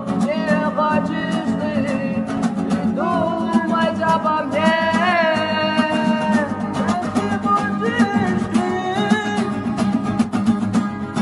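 Acoustic guitar strummed in a quick, even rhythm, with a voice singing a melody over it.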